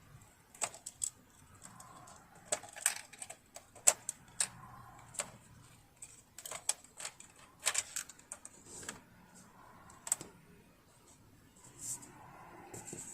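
Irregular small clicks and taps of tools and metal parts being handled on a sewing machine under repair, some louder knocks among them, with no steady rhythm.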